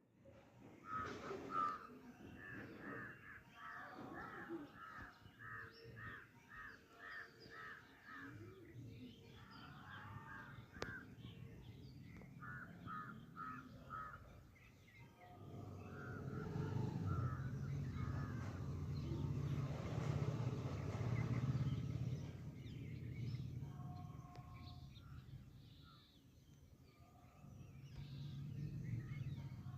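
Birds calling, with a fast run of short, repeated harsh calls at about two a second for the first several seconds and another short run a little later. A low rumble rises through the middle stretch and is the loudest part.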